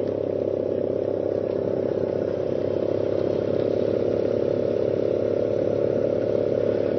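Steady engine drone from the camera motorcycle riding just ahead of the riders: a constant pitched hum with a fast flutter.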